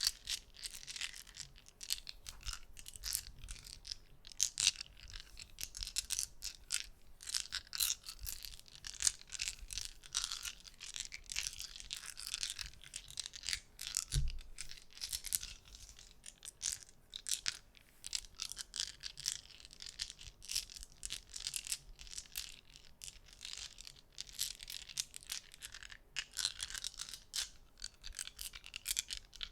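Small hard objects clicking and clattering together in quick, irregular runs, handled close to the microphone, with one low thump about halfway through.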